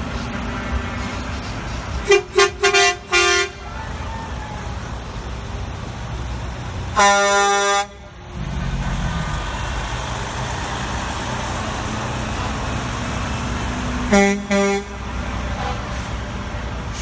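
Parade trucks honking their horns over a steady rumble of passing engines: a quick run of short toots, then one long loud air-horn blast, then two short toots near the end.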